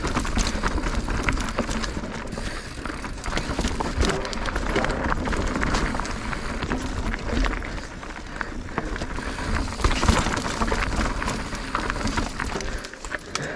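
Mountain bike ridden over a rough, rocky trail: tyres crunching over rock and loose ground, with the chain and frame rattling in a dense run of clicks and knocks. A loud jolt comes about ten seconds in.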